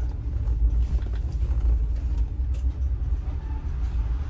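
A steady low rumble that wavers in level, with a few faint clicks.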